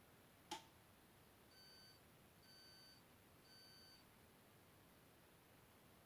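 A sharp click, then the Candy washing machine's electronic beeper sounds three short, evenly spaced beeps about a second apart. The beeps are the machine's end-of-cycle signal.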